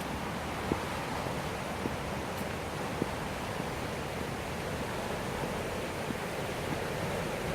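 Steady rushing of the Millstone River's flowing water, with a few faint ticks about once a second in the first half.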